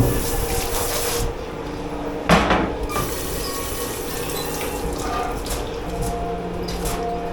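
Water running from a tap into a sink, stopping about a second in, then one sharp clatter, with a steady machine hum from the dish pit.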